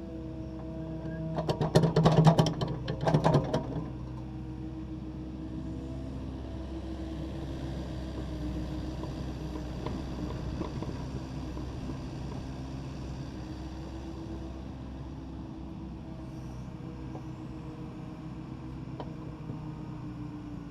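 Takeuchi TB260 excavator's diesel engine running steadily, with a loud burst of clattering and scraping from about one and a half to three and a half seconds in as the bucket works broken concrete.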